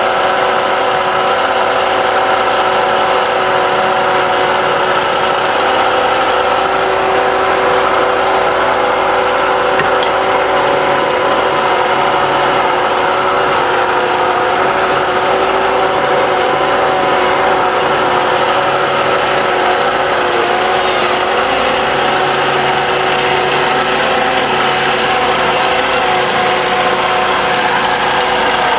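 Wood lathe running steadily, its motor giving a constant hum with a haze of noise over it.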